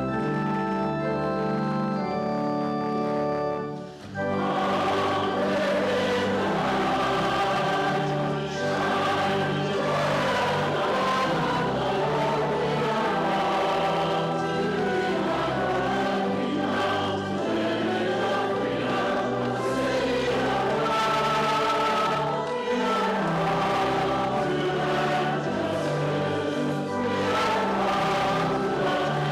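Organ holding a chord, then, after a short break about four seconds in, a congregation singing a hymn with organ accompaniment.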